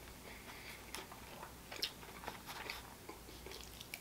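Faint chewing of a mouthful of food, with a few scattered light clicks of a metal fork picking at food in an aluminium foil tray.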